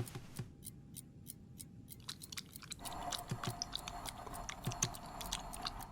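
Cartoon sound effects: a run of small irregular clicks and crunches, with a faint steady hum that grows louder about three seconds in.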